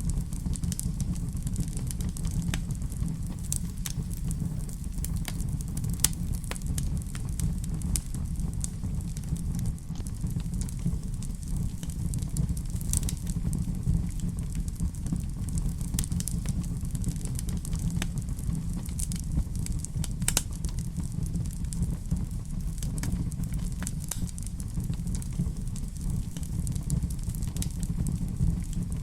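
Wood fire crackling in a fireplace: irregular sharp pops and snaps over a steady low rumble, with a few louder pops scattered through.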